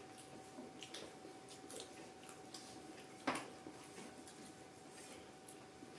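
Quiet eating sounds: soft chewing with small scattered clicks, and one sharper click a little over three seconds in, over a faint steady hum.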